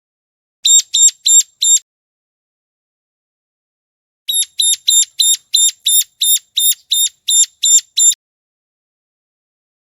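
Ciblek gunung calling: a short run of four sharp, high repeated notes about a second in, then a longer run of about a dozen notes at roughly three a second, with complete silence between. It is the looped lure call used to attract wild ciblek.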